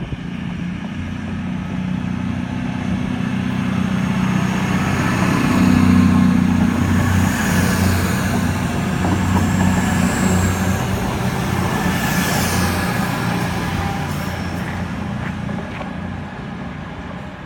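CrossCountry diesel passenger train pulling away: its diesel engines drone steadily under power with wheel-and-rail noise, growing louder to a peak about six seconds in, then slowly fading as it moves off.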